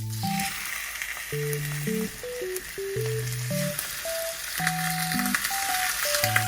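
Food sizzling and frying in hot oil in a pan, a steady crackling hiss.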